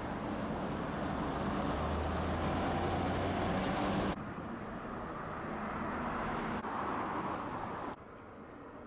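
Streetcar running: a steady rumble of motor and wheels with a low hum, dropping abruptly in level about four seconds in and again near the end.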